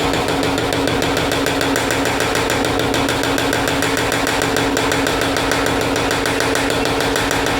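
Mechanical power hammer running, striking rapid, even blows on hot bar stock as it is drawn out, over the steady hum of its drive.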